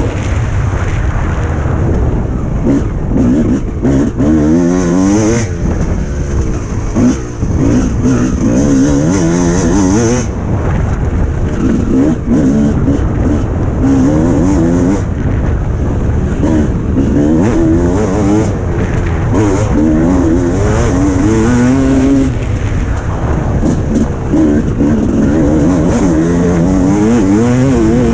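Suzuki RM 300cc two-stroke motocross engine revving hard, its pitch climbing and dropping again and again as the bike is ridden around the track, with heavy wind buffeting on the helmet camera's microphone.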